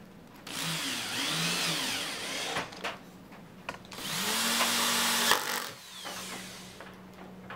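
Power tool motor run in two short bursts of about two seconds each, its pitch rising as it spins up at the start of the second.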